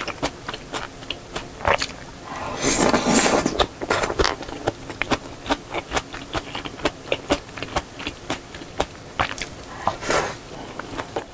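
Close-miked chewing and wet mouth clicks of a person eating seafood jjamppong noodles, with a longer, louder rush of sound about two and a half seconds in and a shorter one near the end.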